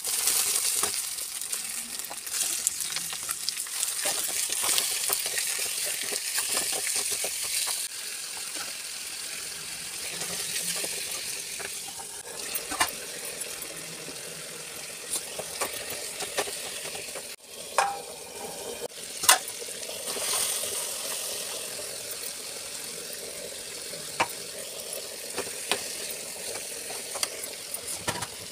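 Food sizzling in hot oil in a metal kadai while a steel spoon stirs it. The sizzle is loudest for the first several seconds, then settles lower, with occasional sharp clinks of the spoon against the pan.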